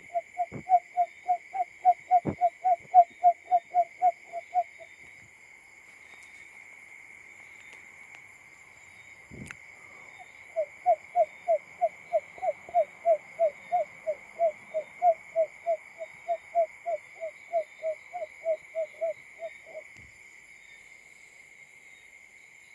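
Barred buttonquail calling: quick runs of low hooting notes, about three a second, the male's call. One run stops about five seconds in, and a second run starts about ten and a half seconds in and lasts some nine seconds, with a single low knock in the gap. A steady high insect drone runs underneath.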